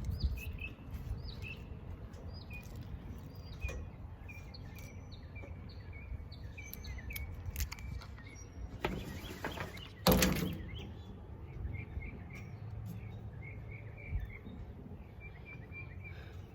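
Small birds chirping repeatedly in short notes over a low outdoor rumble, with a loud rustle and thump about ten seconds in.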